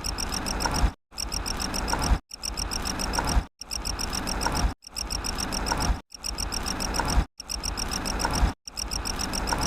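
A short recorded sound clip looped about eight times, each play lasting about a second with a brief silent gap between plays. Each play is a noisy, rapidly pulsing rattle of about ten pulses a second.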